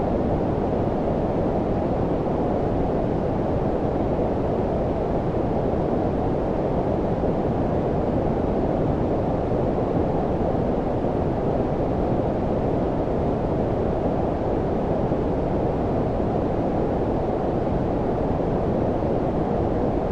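Steady synthetic low-frequency noise, brown-noise-like, with its energy concentrated below about 1 kHz and very little hiss above. It is an even, unchanging rumble-hiss with no events.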